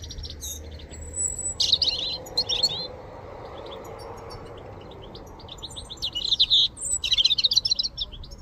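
A small songbird singing in two bursts of fast, high twittering notes, one near the start and one near the end, with a quieter stretch between.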